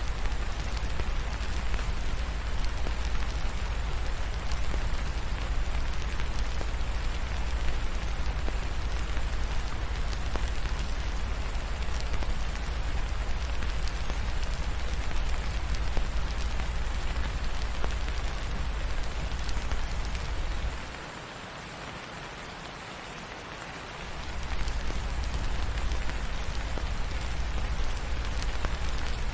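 Steady rain pattering on a surface, with a deep low rumble underneath. The rumble drops away for about three seconds roughly two-thirds of the way through, then returns.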